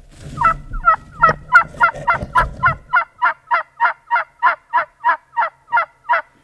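A long, loud run of turkey hen yelps, about twenty evenly spaced notes at roughly three a second. Low rustling noise runs under the first few seconds.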